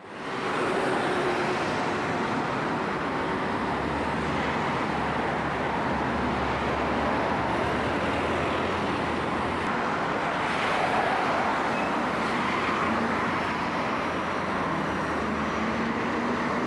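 City bus engine running as the bus drives up to a stop, over a steady hiss of street traffic.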